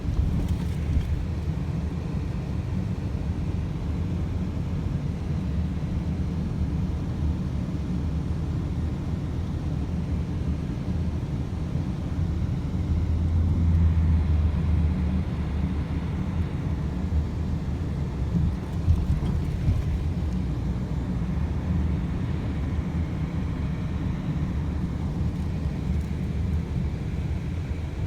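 A car driving: a steady low rumble of engine and road noise, swelling briefly about halfway through.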